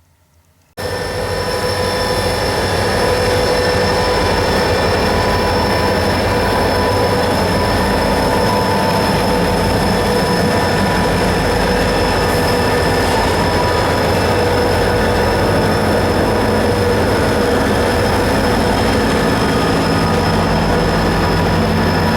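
Freight train passing close by, a loud steady rumble with a high steady whine over it that rises in pitch near the end. It starts suddenly about a second in.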